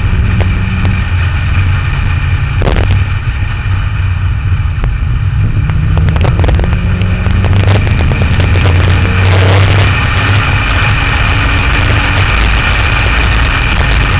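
Car engine running as the car drives at speed, its pitch rising and falling with the throttle, under heavy wind rush on the outside-mounted microphone, with a few short knocks from bumps or buffeting.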